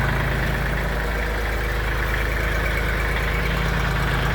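Front-loader tractor's engine running steadily at low revs.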